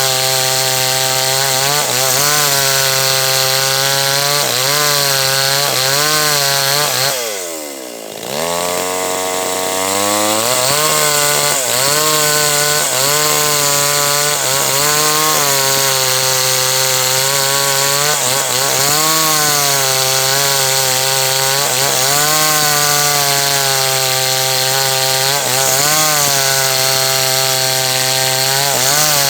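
H&L Pro 5800 two-stroke chainsaw running at high revs while cutting through teak, its pitch wavering as the chain loads and frees. About seven seconds in, the engine drops sharply, nearly bogging in the cut, then revs back up and carries on cutting.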